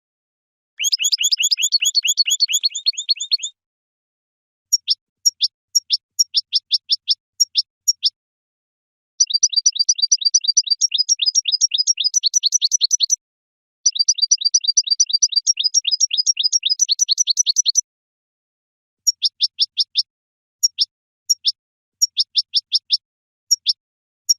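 Goldfinch song: fast twittering phrases of quick, high, downward-sweeping notes. Some runs last three to four seconds and others are short, and clean silent gaps separate them.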